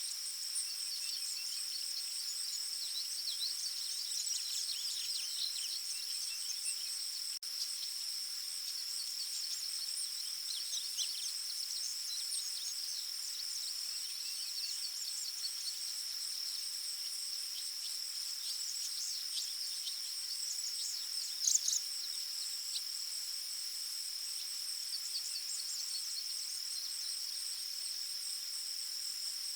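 Forest ambience: a steady, high-pitched insect drone runs throughout, with many short bird chirps over it, busiest in the first half. One louder bird call stands out about two-thirds of the way through.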